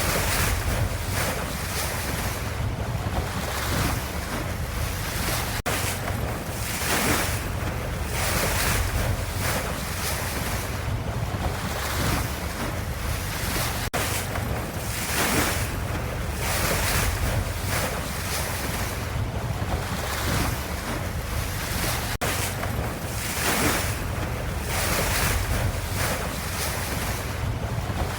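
Ocean waves washing and receding in a steady rhythm, a swell about every four seconds over a low rumble.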